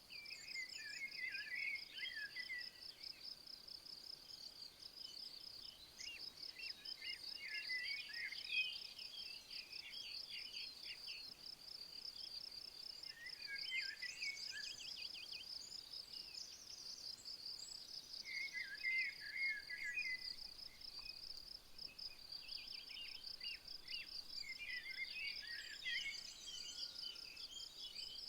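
Crickets trilling steadily in a high, finely pulsing chorus. A small bird sings short warbling phrases about five times, every few seconds.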